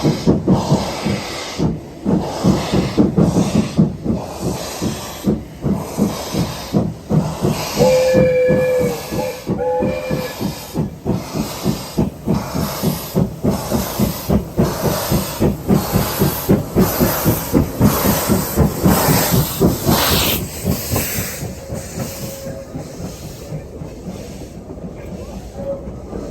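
Steam train working, with rhythmic exhaust chuffs and hiss, and two short whistle toots about eight and ten seconds in. The chuffing fades over the last few seconds.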